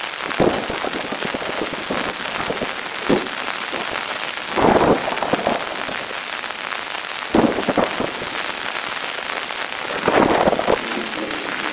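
Heavy rain falling steadily, with louder bursts of heavy drops spattering every two to three seconds.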